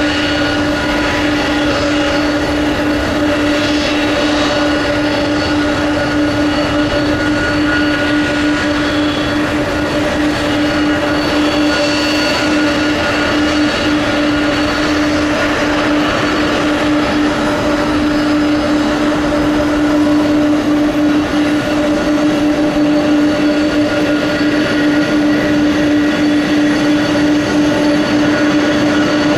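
KC-46A tanker's twin turbofan jet engines running at low taxi power: a steady hum and whine over a constant rush of jet noise, unchanging throughout.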